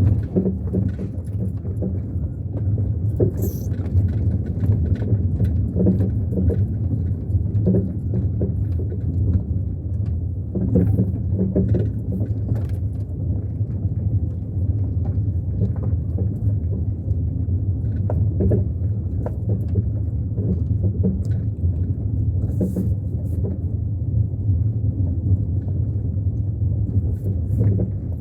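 A car driving, with a steady low rumble and scattered knocks and rattles throughout.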